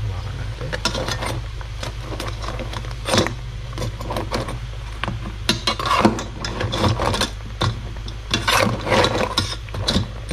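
Stainless-steel ladle clinking and scraping against a metal pot as whole crabs are stirred and turned, with the shells knocking together in irregular clatters. A steady low hum runs underneath.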